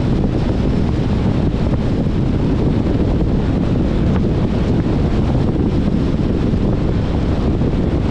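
Steady wind rushing over the microphone with a low road rumble from the 2021 Jeep Compass driving at a constant speed.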